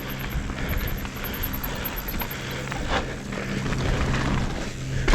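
Mountain bike riding down a dirt trail: tyres rolling over dirt and the bike rattling, with wind on the camera's microphone and a couple of sharper knocks, about a second in and about three seconds in.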